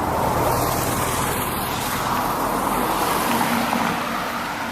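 A road vehicle passing: a steady rush of engine and tyre noise that swells about half a second in, then slowly fades.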